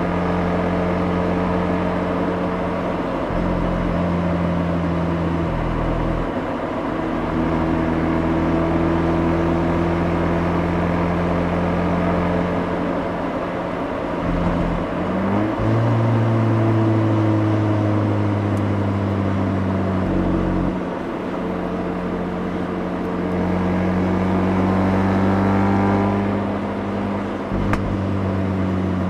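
Mazda RX-8's rotary engine and exhaust heard from the rear bumper while driving, holding steady notes at cruise. The pitch steps and glides with throttle and gear changes a few times, and climbs near the end.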